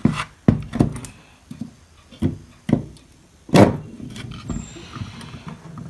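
Irregular knocks and clicks of hand tools and a circuit board being handled during repair work, with one louder, sharper knock about three and a half seconds in.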